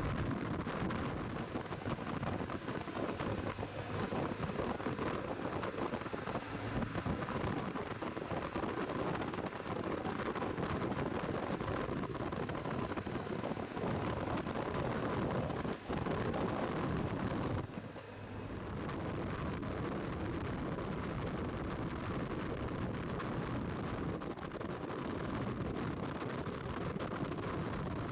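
Wind rushing over the microphone while riding a BMW R1200 GS Adventure motorcycle, a steady noise over the running bike, with a brief drop in level about two-thirds of the way through.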